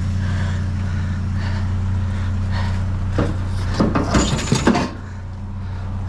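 Junk being handled in and around a dumpster: a quick run of clattering knocks about three to five seconds in, over a steady low hum.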